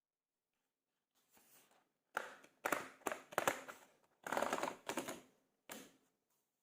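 A run of about six short scraping, clacking noises over four seconds, each starting sharply and dying away.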